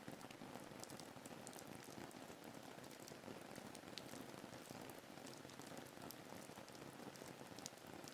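Faint, steady rain ambience: an even hiss of rainfall with scattered sharp drop ticks.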